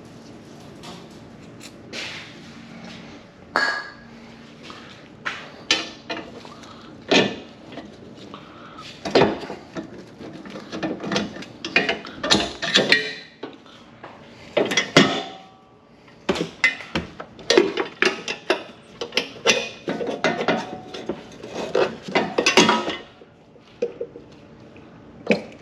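Irregular metallic clinks, clanks and scrapes of hand tools on exhaust bolts and pipework, as an aftermarket exhaust is unbolted from underneath a car.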